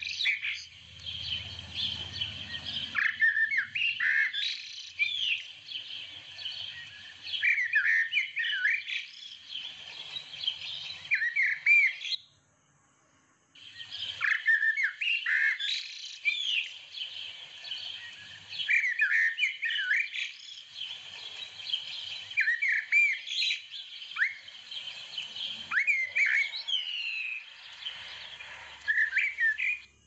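Birds chirping and singing: many short, rising and falling whistled calls overlapping one another. The sound cuts out completely for about a second and a half near the middle.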